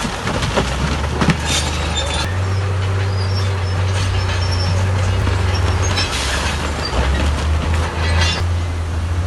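Heavy diesel engine of earthmoving machinery running steadily, its drone shifting in pitch a couple of times. Short bursts of clattering and scraping come about a second and a half in, around six seconds and around eight seconds.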